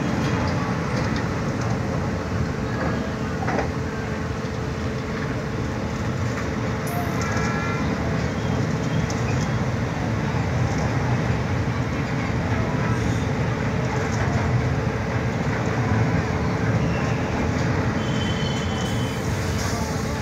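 Train running across a steel girder bridge, heard from inside the coach: a steady, loud rumble of wheels on the rails.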